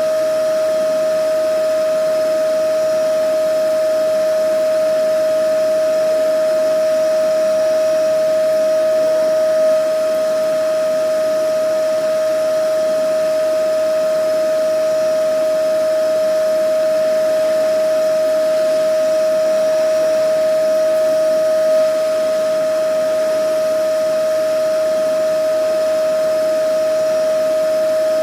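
Vacuum cleaner running steadily: a constant high motor whine over a rushing hiss of air, with no change in speed.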